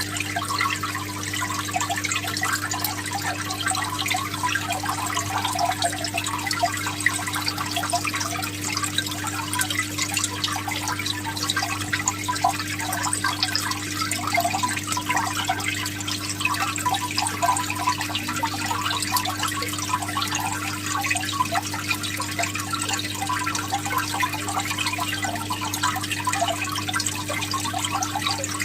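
Aquarium water trickling and bubbling steadily over a constant low hum from the tank's pump or filter.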